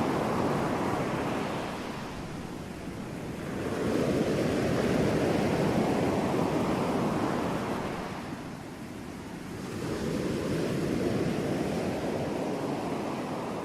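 Ocean waves washing ashore in slow surges, each swelling and then receding: three swells with lulls about 2–3 s and 8–9 s in.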